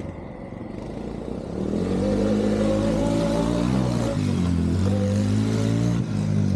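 Car engine accelerating: its pitch climbs, drops sharply about four seconds in, then climbs again, as when a car is driven up through the gears.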